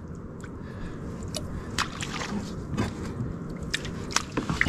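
Water sloshing with wet squelches and scattered knocks, as seaweed is cleared from the jet-powered kayak's clogged jet-pump intake grate.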